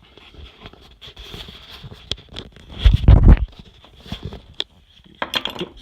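Handling noise from a hand-held phone and a small die-cast model airplane being moved: scattered clicks and rubbing, with a heavy low bump on the microphone about three seconds in and a quick run of clicks near the end.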